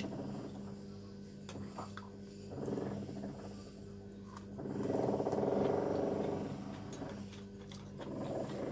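A person eating okra: low swells of closed-mouth humming while chewing, mostly in the second half, with a few light chopstick clicks. A steady low hum runs underneath.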